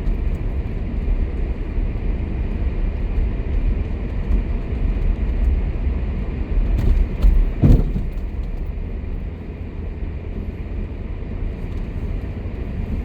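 Steady engine and tyre rumble heard from inside a car driving on snow-covered, unsalted streets, with a short thump about eight seconds in.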